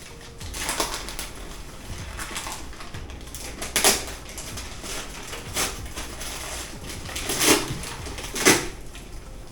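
Gift wrapping paper crackling and tearing as a present is unwrapped, in about six short rips, the loudest about four seconds in and near the end.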